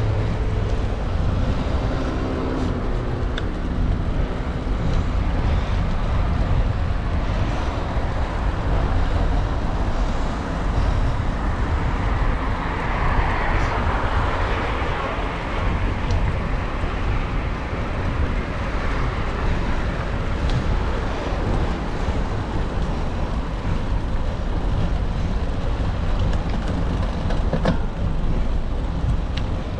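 Wind rumbling on the microphone of a camera riding along on a bicycle, over the steady noise of city road traffic. A louder rushing sound swells and fades about halfway through.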